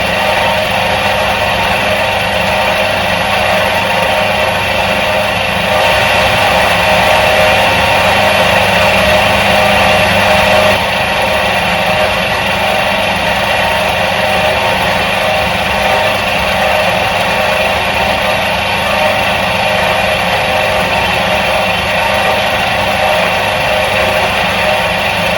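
Electric motor of a 1977 Soviet washing machine running steadily with an even hum and whine. It gets a little louder about six seconds in and settles back about five seconds later.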